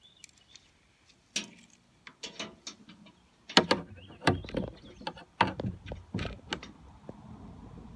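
A string of sharp clicks and knocks, about a dozen in several seconds, as trailer parts are handled and fitted together.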